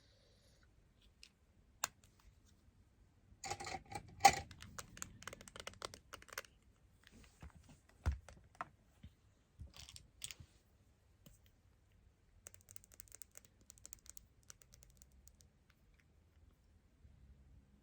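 Light clicks, taps and small rattles of hands working with little parts and tools on a smartphone while decorating its camera lens area, busiest about four seconds in, with one dull knock about eight seconds in and fine light ticking later on.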